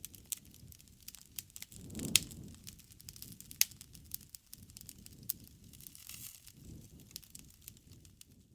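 Wood fire crackling: a steady low rustle of flame with many sharp snaps and pops of burning wood, two of them louder, about two seconds and three and a half seconds in.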